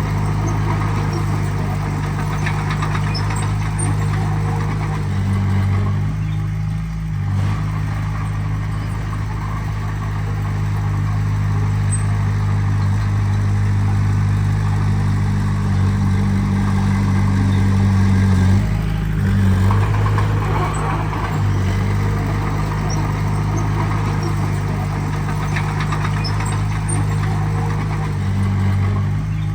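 Heavy earthmoving machine's diesel engine running steadily, its note shifting briefly about seven seconds in and again near nineteen seconds.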